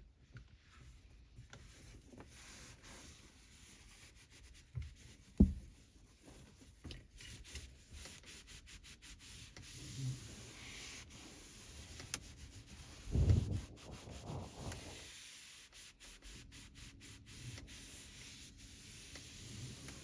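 Microfiber cloth rubbing and wiping over car interior surfaces. There is a single knock about five seconds in and a brief low thudding around thirteen seconds.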